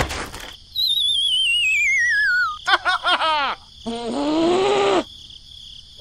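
Cartoon sound effects: a sudden hit, then a falling, wavering whistle lasting about two seconds, then a quick run of squeaky high-pitched character chatter and a short groaning voice near the end.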